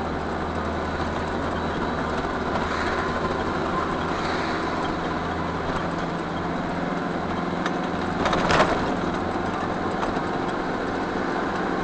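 Car engine and road noise heard from inside the cabin while driving, steady throughout, with a short rushing burst about eight and a half seconds in.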